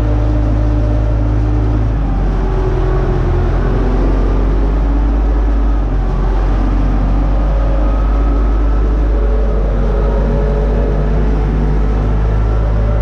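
Universal U650 tractor's four-cylinder diesel engine running steadily under working load, a loud continuous low drone.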